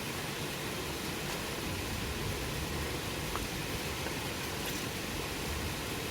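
Wood campfire burning with a steady hiss and a couple of faint pops a few seconds in.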